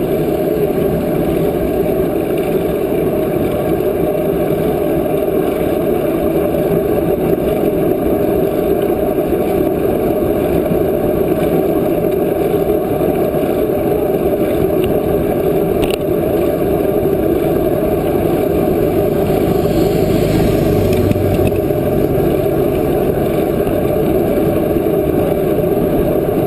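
Steady loud rush of wind over the microphone while riding a bicycle, with a faint click about sixteen seconds in.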